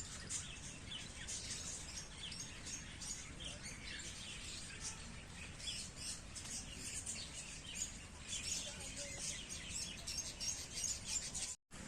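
A flock of aviary birds chirping and twittering, many short high chirps overlapping throughout. The sound drops out completely for a moment near the end.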